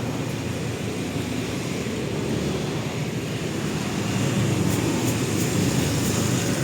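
Steady low rumbling background noise, growing a little louder after about four seconds, with a few faint light ticks.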